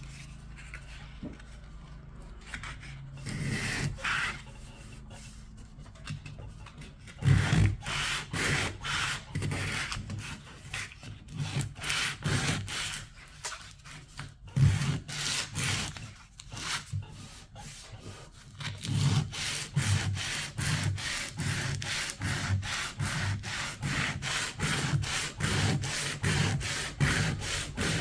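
Hand sanding of old paint and finish on wood: sandpaper rubbed back and forth in repeated strokes. After one short stroke about four seconds in, steady strokes begin about seven seconds in and quicken to about two a second in the second half.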